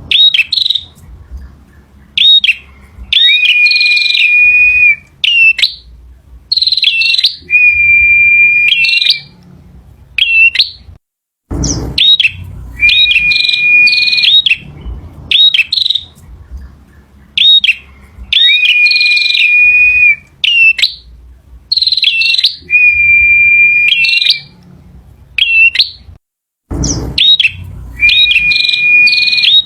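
Male prenjak (prinia) singing loudly in repeated phrases: sharp, quick high chips over a level, held whistle, each phrase a second or two long with short gaps between. A brief low thump comes twice, near the middle and near the end.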